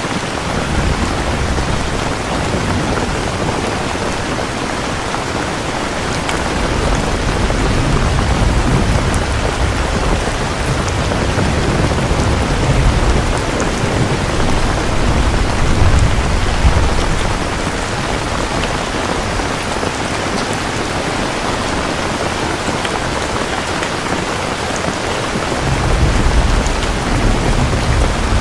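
Steady rain falling hard, with low rolling thunder rumbling underneath in long swells, building through the middle and again briefly near the end.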